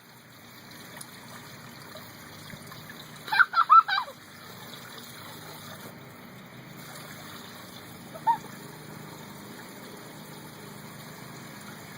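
Water running and trickling steadily, with a young child's burst of short high-pitched squeals about three seconds in and one brief squeal near eight seconds.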